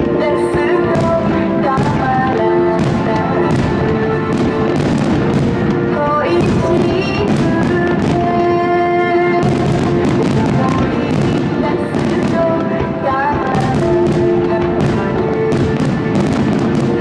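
Fireworks finale: aerial shells bursting in quick succession, about two bangs a second, over music with long held notes.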